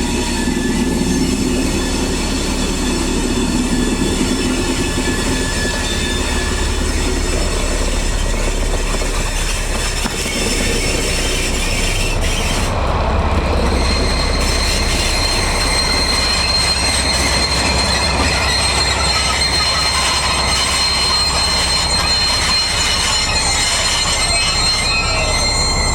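German class 218 diesel locomotive 218 256 and its train moving slowly, steel wheels squealing on the rails over a steady low rumble. A thin high squeal sets in about halfway through and holds.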